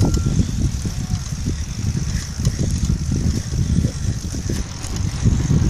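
Wind rumbling and buffeting on the microphone while riding a bicycle, with a steady high hiss underneath.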